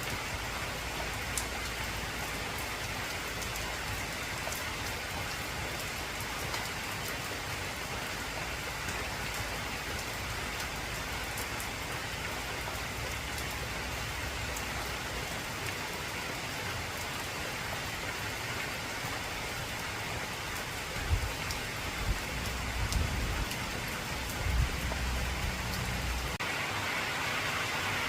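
Heavy rain drumming on an old corrugated tin roof: a steady hiss of rain with sharp ticks of drops striking the metal. About three quarters of the way through, a few low rumbles of thunder rise over it.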